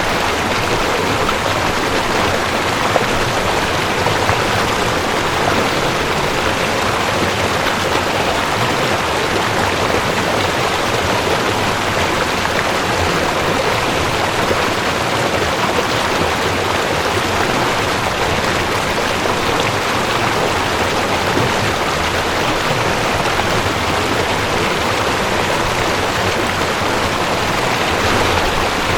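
Mountain stream rushing over rocks, a steady, even wash of water.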